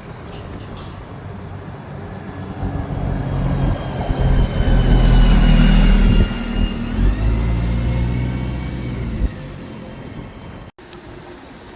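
Diesel coach engine pulling past, getting louder to a peak about halfway, with a high whine that rises in pitch shortly after. The sound drops away and cuts off suddenly near the end.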